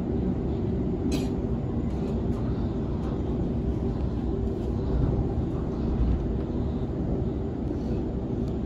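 Sydney Trains Waratah Series 2 (B-set) electric train heard from inside while running along the track: a steady low rumble with a faint steady hum, and a single click about a second in.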